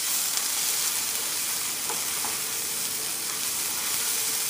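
Tomato paste and ground spices sizzling steadily in a frying pan as they are stirred with a spatula, fried until the paste darkens.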